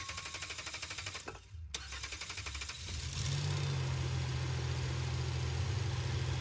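A Chevy Astro van's 4.3-litre V6 cranks on the starter, pauses briefly and cranks again. About three seconds in it catches and settles into a steady idle. It is starting on a newly replaced fuel pump, with fuel pressure back at 55–60 psi.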